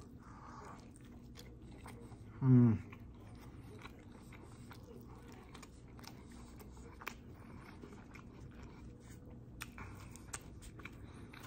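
Close-up mouth sounds of a person chewing food: faint, scattered wet clicks and smacks. About two and a half seconds in comes one short, loud voiced 'mmm' that falls in pitch.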